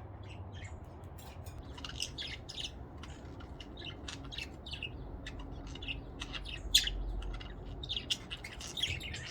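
Several pet budgerigars chirping and chattering in many short, high calls, one after another, with a faint low rumble underneath.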